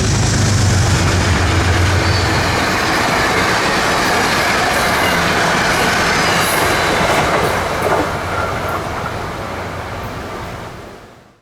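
Passenger train passing: steady wheel-on-rail noise with a low hum for the first couple of seconds, dying away over the last few seconds before cutting off.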